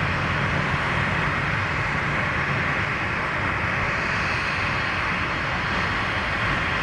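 Jet airliner engines running, a steady noise with no rise or fall.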